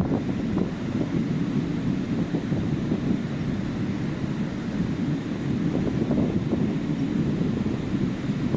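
Wind noise on the microphone over the wash of sea waves on a beach: a steady, low rumbling noise that keeps flickering.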